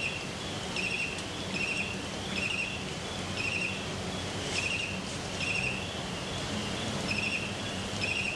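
A bird calling with short, trilled chirps, repeated roughly once or twice a second, over a steady outdoor hiss.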